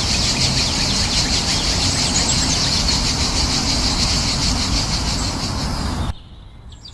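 Steady outdoor ambience: a low rush under dense, high-pitched chirping. It cuts off abruptly about six seconds in.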